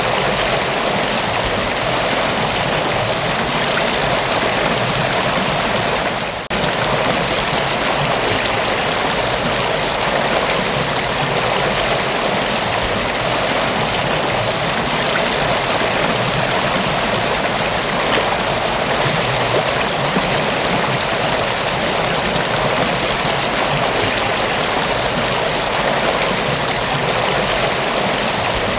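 Mountain waterfall rushing steadily, a dense, even spray of water, with one brief dip in level about six seconds in.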